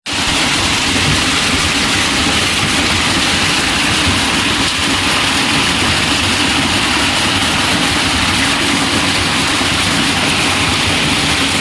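Heavy rain falling: a loud, steady, unbroken hiss with a low rumble underneath.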